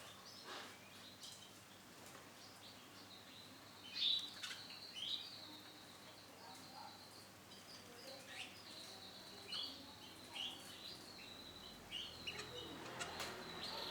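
Male canary chirping in short, scattered notes, the loudest about four seconds in, with a few faint clicks between them.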